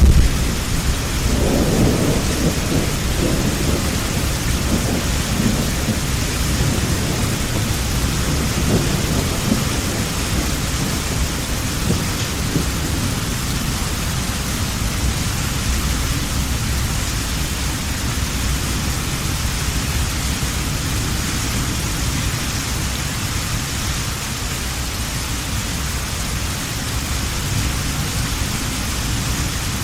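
Heavy rain falling steadily, with a roll of thunder rumbling low through the first several seconds and fading away.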